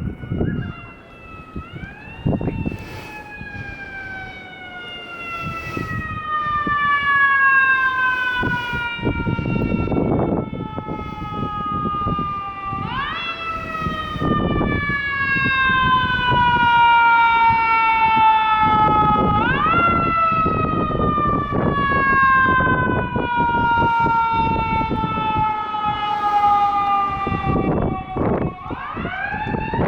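Fire truck siren repeatedly winding up quickly and then slowly falling in pitch over several seconds, about four times, growing louder as the ladder truck approaches.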